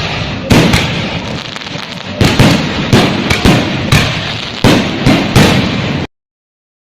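Consumer firework cake firing a rapid, uneven volley of about eleven loud bangs with a continuous crackling hiss between shots, stopping abruptly about six seconds in.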